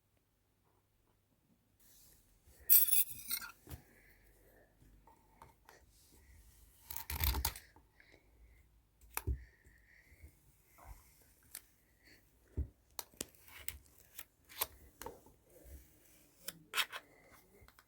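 Flattened sand being scraped and broken up, giving gritty, crunching rasps: a loud one about three seconds in and another around seven seconds, then a run of short sharp crackles and clicks.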